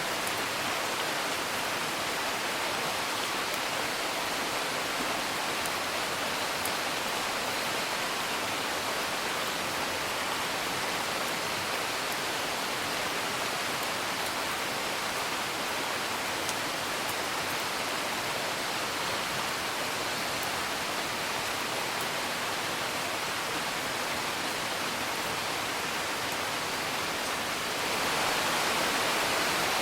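Steady rain hiss with faint, scattered crackles from a wood fire. The rain swells slightly near the end.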